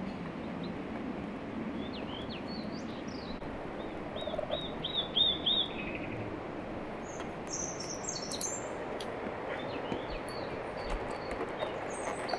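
Small birds chirping: a quick run of repeated chirps about halfway through, then higher, thinner twittering, over a steady background hiss.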